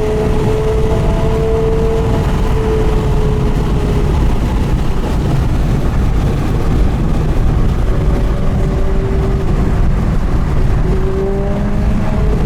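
Porsche Carrera GT's V10 engine running through an FVD exhaust at fairly steady revs, a sustained engine note over a heavy low rumble. The note drifts slightly in pitch, fades about halfway through and comes back stronger near the end.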